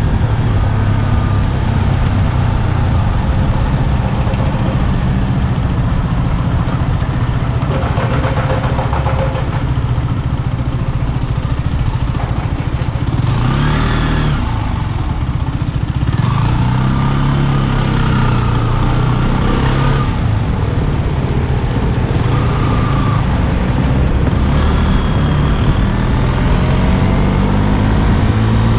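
KTM Duke 125's single-cylinder four-stroke engine running while riding in traffic, under heavy wind noise on the camera's microphone. The engine drops back to near idle about halfway through as the bike almost stops between cars, then pulls away again.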